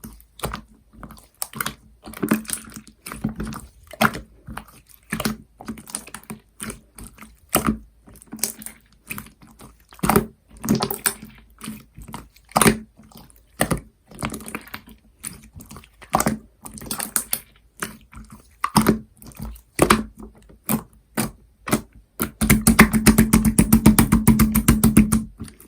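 Purple marbled slime being squeezed, folded and poked by hand, making irregular wet clicks and pops. Near the end it turns into a fast, dense run of clicks for about three seconds.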